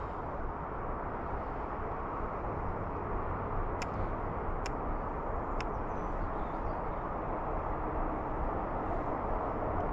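Steady outdoor background noise, an even rumble and hiss with no clear source, and three faint clicks near the middle.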